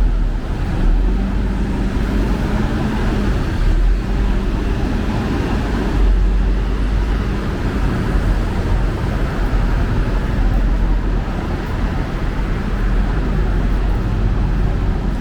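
Road traffic: a steady low rumble of cars passing.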